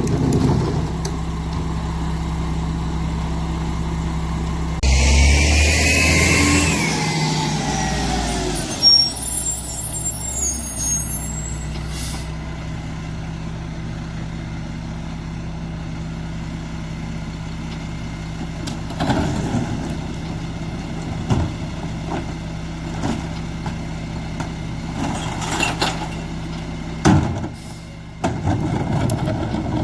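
Mack MR garbage truck's diesel engine idling, surging up about five seconds in with a loud hiss and a gliding whine for a few seconds before settling back to idle. A few short knocks follow later on.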